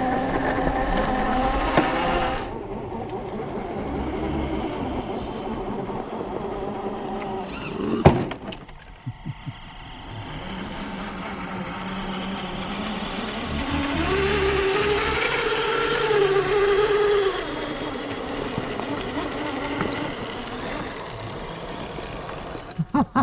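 Electric motors and geared drivetrains of RC scale crawler trucks whining as they drive, the pitch rising and falling with the throttle. There is a sharp knock about eight seconds in.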